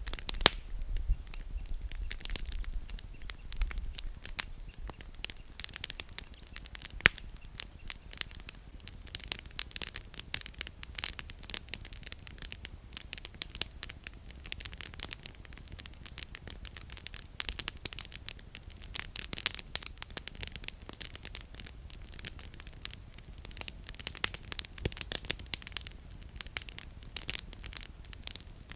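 Wood campfire burning, its firewood crackling with irregular sharp pops, a few louder snaps among them, about a quarter of the way in and about two-thirds through.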